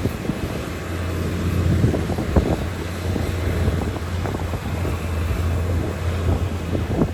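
Heavy diesel earthmoving machinery running, a steady low engine drone under irregular rattles and knocks, with wind on the microphone.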